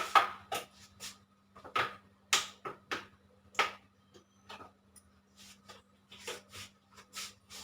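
A dozen or so light, irregularly spaced clicks and knocks of kitchen utensils and vessels being handled, over a faint steady hum.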